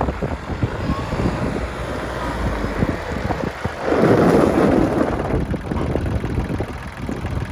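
New Holland 1725 compact tractor's diesel engine running, with wind buffeting the microphone. The sound swells louder for about a second around four seconds in.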